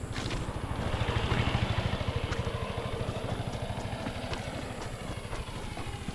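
A motorcycle engine passing on a road, getting louder to a peak about a second and a half in and then slowly fading away.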